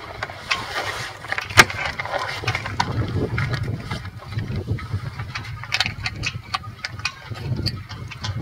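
Gusty wind at sea buffeting the microphone as a low, uneven rumble, with scattered clicks and knocks over it and one sharp, loud knock about a second and a half in.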